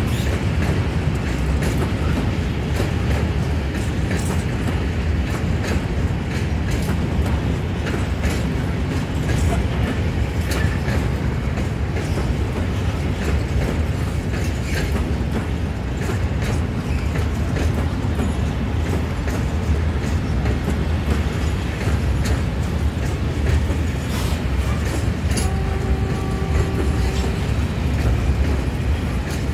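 Freight train of Fas open hopper wagons rolling past, a steady low rumble with irregular clicks and knocks from the wheels and couplings. A brief steady tone sounds for about two seconds near the end.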